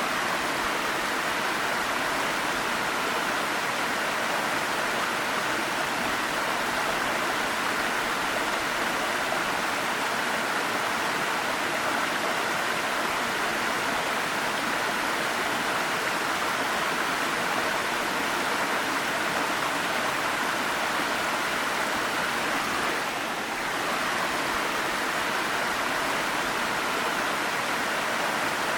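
A waterfall's water rushing steadily and evenly, with one brief slight dip in level about 23 seconds in.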